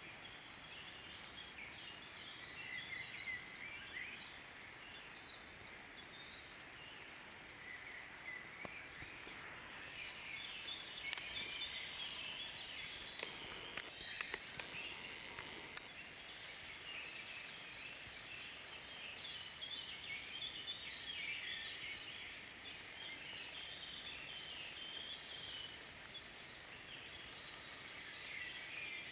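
Woodland birds singing in the rain: a high, down-slurred call repeated every few seconds over busier chirping, with a faint steady patter of drops falling from the leaves and a few sharp ticks in the middle.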